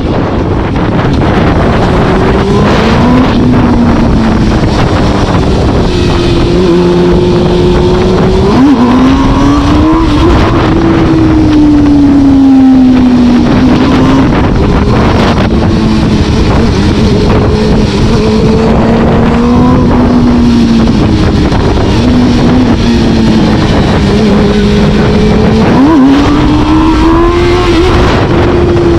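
A vehicle engine being driven: its pitch climbs and sags as it accelerates and eases off, with quick jumps in revs about a third of the way in and near the end, over steady road and wind noise.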